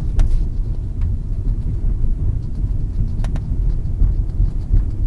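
Road and tyre rumble inside a moving Lada Vesta Cross, with two sharp clicks from the rear of the body, one right at the start and one about three seconds in. The owner suspects the clicks come from poorly bonded rear glass or the body flexing.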